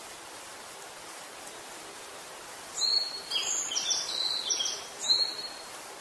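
A bird sings one short phrase of high chirping notes for about two and a half seconds, starting just before the middle, over a steady outdoor background hiss.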